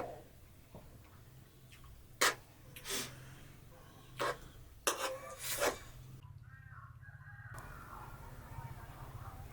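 A handful of sharp knocks or clicks, about five over three or four seconds, over a faint steady low hum.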